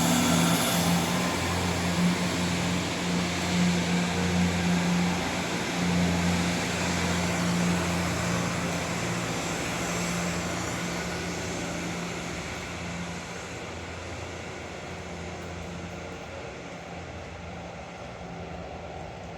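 Diesel train engine hum from a departing Class 170 Turbostar multiple unit, steady at first and then slowly fading as the train pulls away.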